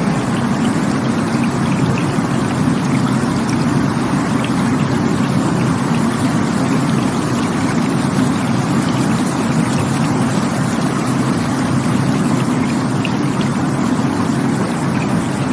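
Rushing water running steadily: an unbroken, full-bodied rush with small splashes flicking through it.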